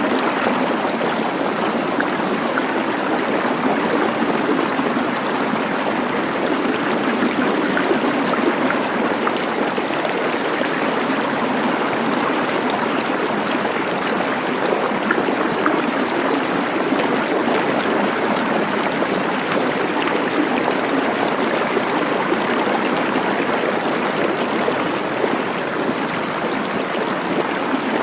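Running water flowing steadily, with an even splashing hiss and no breaks or changes.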